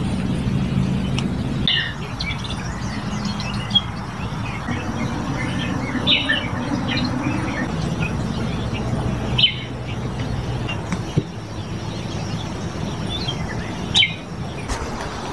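Wild birds chirping and calling in short, scattered phrases, with the loudest calls about six, nine and fourteen seconds in, over a steady low hum.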